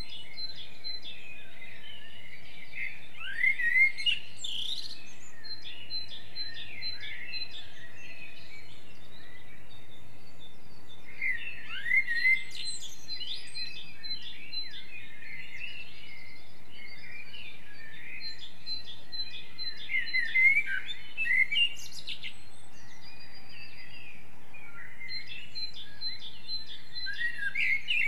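Several songbirds singing in a forest: loud phrases of quick, sliding whistled notes come about every eight seconds, with softer chirps between them, over a steady background hiss.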